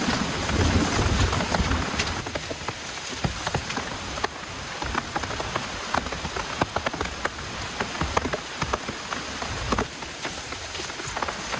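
Heavy rain falling steadily, with many separate drops striking close by; a low rumble runs under it for the first two seconds or so.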